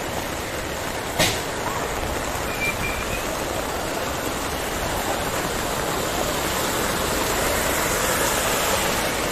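Heavy rain and rushing floodwater make a steady, even hiss that grows slightly louder, with a single sharp click about a second in.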